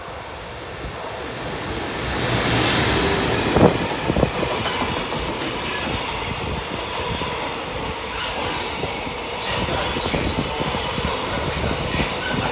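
Electric locomotive hauling a container freight train passes at speed. The noise swells as the locomotive goes by about two to three seconds in, then two sharp knocks, then the steady rumble and clatter of the container wagons rolling past, with faint wheel squeal.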